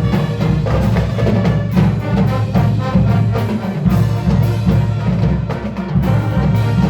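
Marching band playing, with drums striking a busy, steady rhythm over the ensemble.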